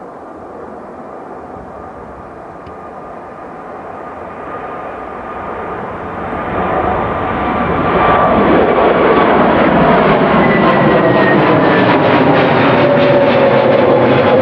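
Airbus A320neo-family airliner taking off on Pratt & Whitney PW1100G geared turbofans, with the characteristic booming drone of these engines. It grows louder over the first several seconds and stays loud as it passes close overhead, its whining engine tones slowly falling in pitch.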